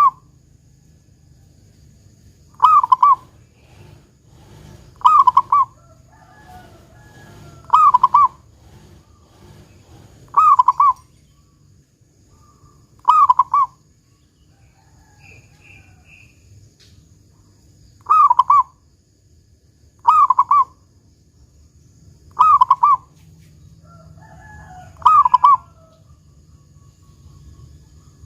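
Zebra dove (perkutut) singing its song over and over, each phrase a short burst of cooing notes that ends in the loud 'kung' note, about every two and a half seconds with one longer pause. Fainter chirping from other birds comes between the phrases.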